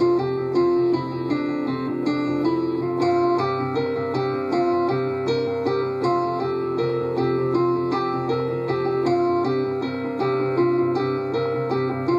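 Improvised keyboard music with a piano-like tone, playing a quick repeating pattern of notes over a held low note.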